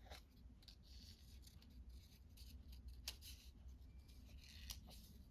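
Near silence with faint paper-crafting handling sounds: soft rustles and a few light clicks, one about three seconds in and another near the end, over a low room hum.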